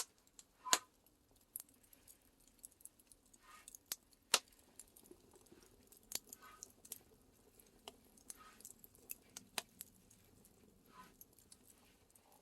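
Scattered sharp crackles and clicks with soft rustles, from tea leaves being pan-roasted in a cast-iron cauldron over a wood fire.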